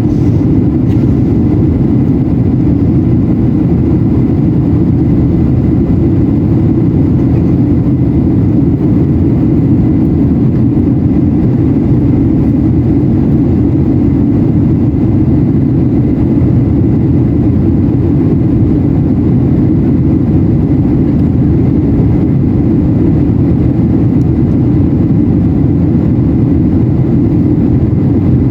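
Steady cabin noise inside a Boeing 737-800 in descent: the deep, even rumble of airflow over the fuselage and its CFM56-7B jet engines, unchanging throughout.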